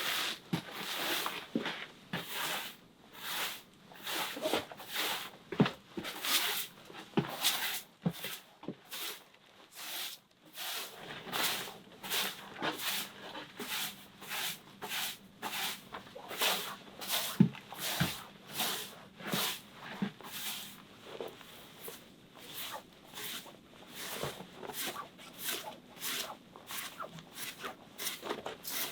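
Footsteps crunching in snow, short crunchy steps about one to two a second, pausing for a few seconds about eight seconds in before walking on.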